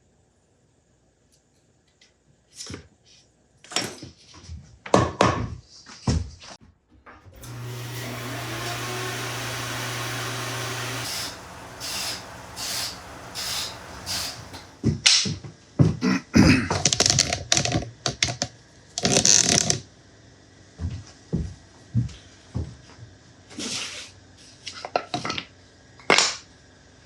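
Workshop handling noises: scattered knocks and clatter of wood and parts, with a small electric power tool running steadily for about three and a half seconds, starting about seven seconds in and cutting off suddenly.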